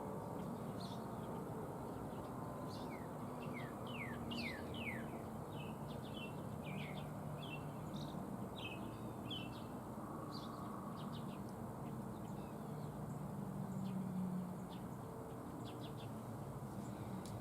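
Small songbirds chirping and calling: a run of short high chirps with quick downward-sliding notes, over a steady low background hum.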